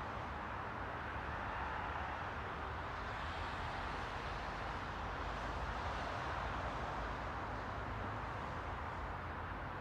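Steady rushing noise with a low rumble underneath, swelling slightly around the middle and easing off again.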